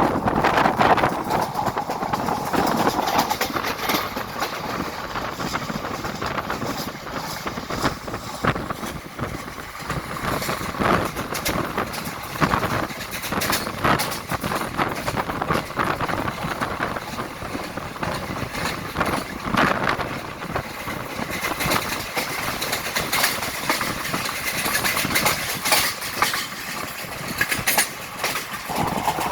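Train running along the track: a continuous rumble with many irregular clicks and knocks from the wheels on the rails.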